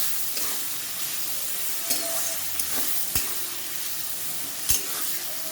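Chopped onions sizzling in hot oil in a kadai, a steady high frying hiss, while they are stirred. A few sharp clicks of the spatula against the pan come about 2, 3 and 5 seconds in.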